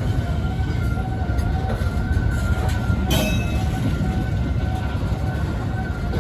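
Container wagons of a freight train rolling past at close range: a steady heavy rumble of wheels on rail, with a faint steady tone running through it and one sharp clank about three seconds in.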